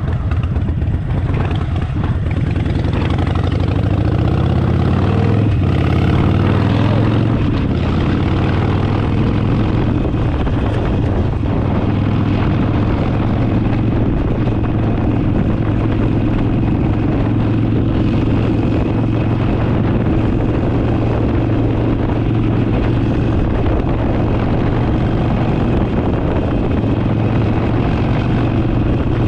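Harley-Davidson Forty Eight's 1200 cc V-twin running under way, its pitch rising over the first several seconds as the bike accelerates, then holding steady at cruising speed, with a steady rush of wind noise.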